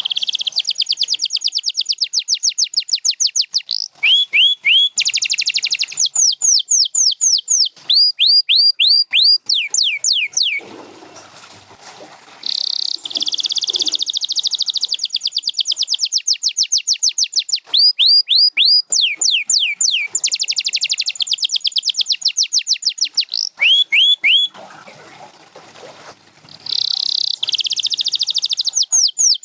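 Canary singing: long runs of very fast, even trills alternate with rolls of slower notes, each sweeping downward in pitch. The song breaks off twice for about two seconds, once about ten seconds in and again about twenty-four seconds in.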